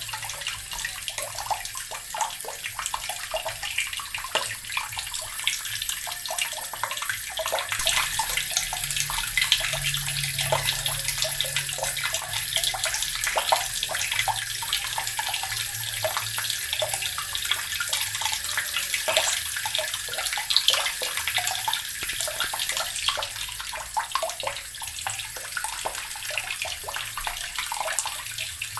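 Water running steadily from a tap and splashing into a basin below, with a constant rush and small splashing spatters.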